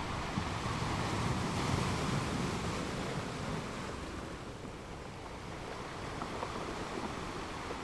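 Sea surf: waves washing onto the shore as a steady rushing noise that swells in the first few seconds and eases off a little past the middle.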